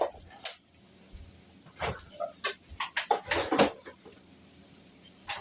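Fried rice and melting butter sizzling in a hot oiled pan: a steady high hiss with scattered pops and crackles, and a sharper knock near the end.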